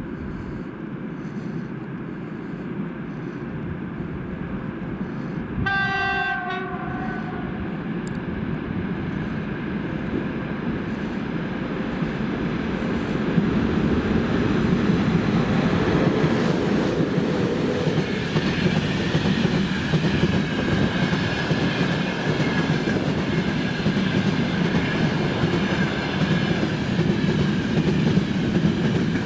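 VL80S electric locomotive with a freight train: one short horn blast about six seconds in as it approaches, then from about thirteen seconds in the train passes close, wheels rumbling and clattering over the rails.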